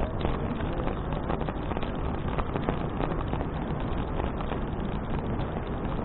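Wind buffeting an action camera's microphone on a moving bicycle, over a steady low road rumble, with many small clicks.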